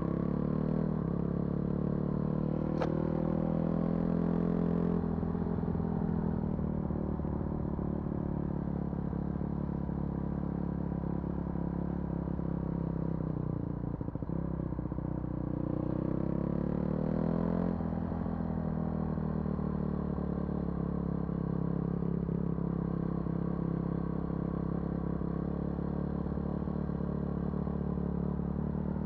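Vehicle engine running under way, its pitch rising and falling with the throttle: it climbs over the first few seconds, sinks slowly, climbs again past the middle, then holds steady. A single sharp click comes about three seconds in.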